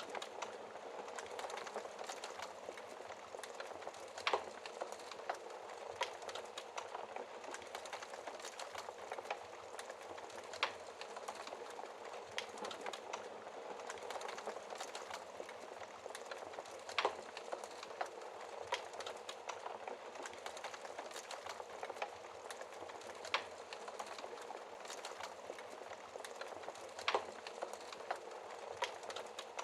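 Log fire burning with a steady hiss and frequent small crackles, broken by a louder pop every few seconds.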